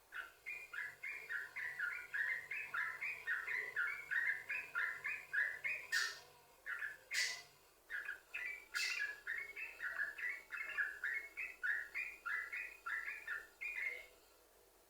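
Yellow-vented bulbul (trucukan) singing a long, unbroken run of quick chattering notes, several a second, in the continuous 'sambung ropel' style. Three sharp clicks come around the middle, and the song stops shortly before the end.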